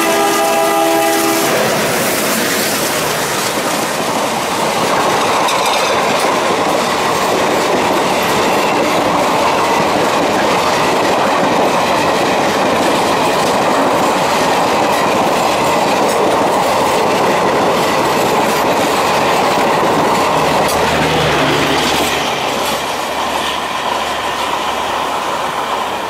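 Diesel locomotive's horn sounding and cutting off about a second and a half in, then the steady rumble and clatter of a passing express train's coaches running over the rails. The noise eases near the end as the last coach goes by.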